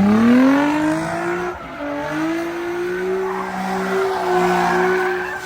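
Car engine revving hard, its pitch climbing for about a second and a half, then held steady at high revs while the tyres spin and squeal: a burnout or slide.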